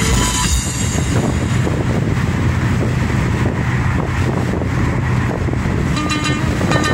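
Steady road and engine noise of a moving Tofaş Doğan 1.6ie heard inside the car, with the car stereo's music coming back in about six seconds in.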